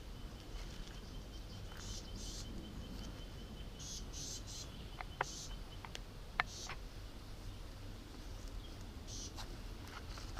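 Bush ambience of insects: a thin, steady high trill for about the first five seconds and repeated short, raspy high chirps throughout. Two sharp, sudden high notes stand out about five and six and a half seconds in, over a low rumble.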